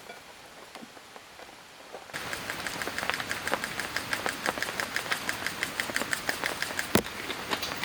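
Rain pattering with scattered drips, jumping suddenly to a louder, denser patter of close drops about two seconds in. There is one sharp knock near the end.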